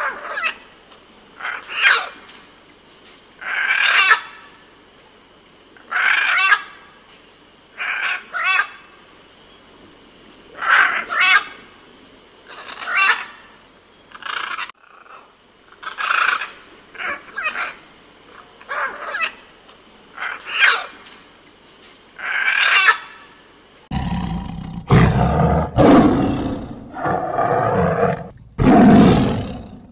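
An animal calling over and over, each call about a second long with a wavering pitch, coming every second or two. Near the end a louder, deeper sound takes over.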